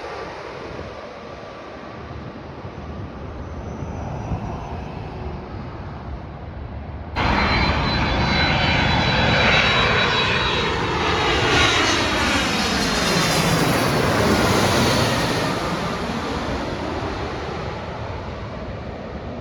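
Jet airliner passing low and close: its engine noise comes in abruptly about seven seconds in over a windy rumble, and its whine slides steadily down in pitch as it goes by, then fades.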